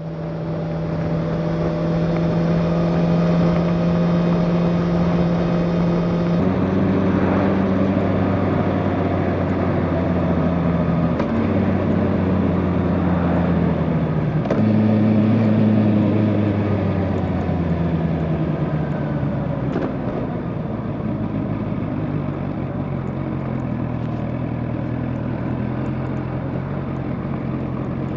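Motorcycle engine running under way over road and wind noise. Its pitch holds steady for about six seconds, then drops and steps up and down several times as the revs change with gear shifts and throttle.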